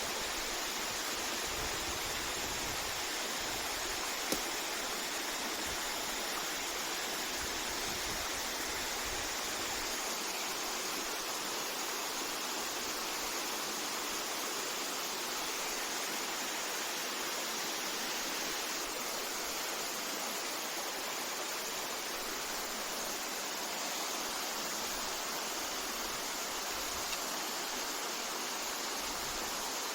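Waterfall: a steady rush of falling water, with one brief click about four seconds in.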